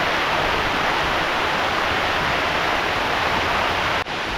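Heavy rain: a steady, dense hiss of downpour. It cuts out for a moment about four seconds in, then carries on a little quieter.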